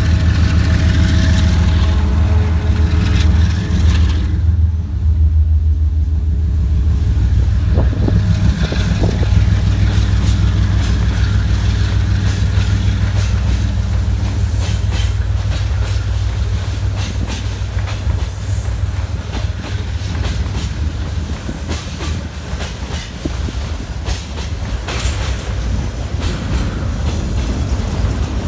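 Two-section 2TE116UD diesel freight locomotive pulling away with a heavy coal train: a steady low diesel drone that slowly fades as it draws off. From about eight seconds in, the loaded wagons roll past with wheels clicking over the rail joints.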